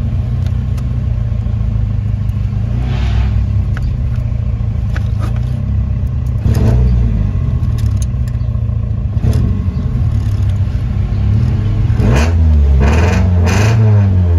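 Toyota 4A-GE Silvertop 20-valve four-cylinder engine running at idle, with a few light knocks. Near the end its pitch swings up and down: the idle wavers as the under-dash wiring harness is moved, a sign of a bad connection in the harness.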